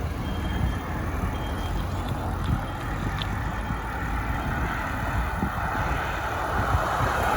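Wind buffeting the microphone and tyre rumble while riding a bicycle, a steady low rushing noise; a louder rushing swell builds near the end.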